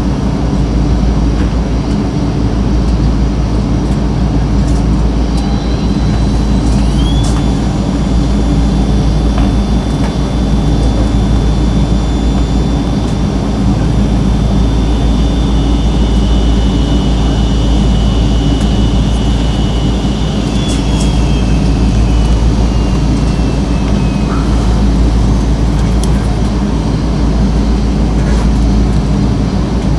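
Inside the cabin of a Boeing 777-200ER with Rolls-Royce Trent 892 engines at idle before the takeoff roll: a steady low rumble. A thin high whine comes in about seven seconds in and slides down and fades away after about twenty seconds.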